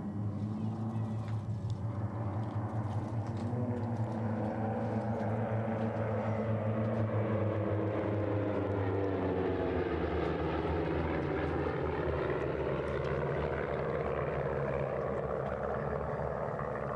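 Six propeller airplanes flying past in tight formation: a steady multi-engine drone, with a whooshing sweep that swells and falls away as they pass by about midway through.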